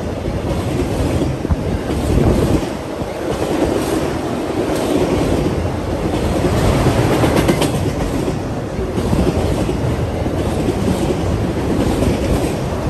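Freight train of autorack cars rolling past close by: a steady rumble of steel wheels on the rails.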